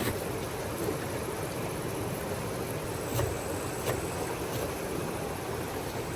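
A steady rushing noise with a few faint light knocks.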